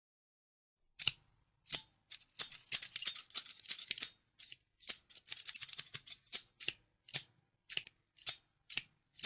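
Scissors snipping. Silent for about the first second, then runs of quick snips, thinning out near the end to single snips about twice a second.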